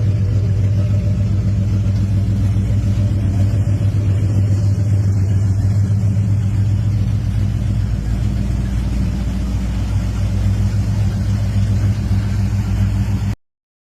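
1970 Dodge Charger V8 idling steadily, then cutting off abruptly near the end.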